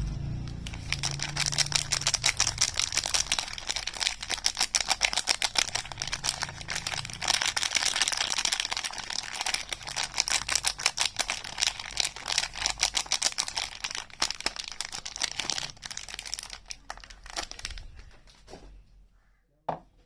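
Soap packaging being unwrapped, crinkling and tearing in a dense run of rapid crackles that fades away near the end.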